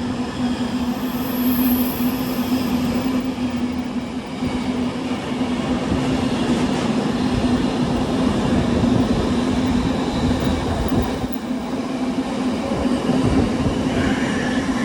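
Freight train hauled by two Class 66 diesel locomotives passing at speed: a steady heavy rumble of locomotives and wagons on the rails, with a steady low drone throughout. A faint high squeal comes in about a second in and lasts a couple of seconds.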